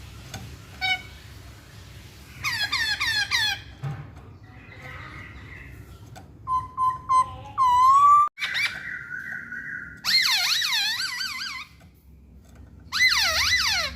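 Masked laughingthrush (poksay Hongkong) singing loud whistled phrases in separate bursts. There are runs of quick swooping notes, held whistled tones that rise at the end, and the longest runs come about ten and thirteen seconds in, over a faint low hum.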